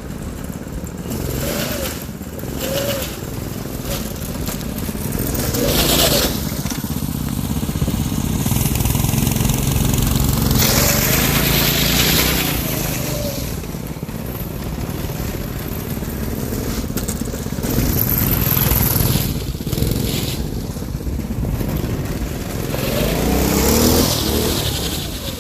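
Twin-engine go-kart's small engines running hard, revving up and down repeatedly as it drives, with several louder rushing surges.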